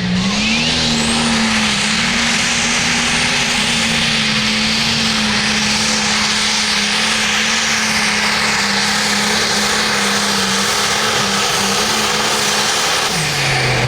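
A pulling tractor or truck engine is run at full throttle under load. Its pitch climbs in the first second, holds high and steady over a loud rushing noise, then drops near the end as the throttle comes off.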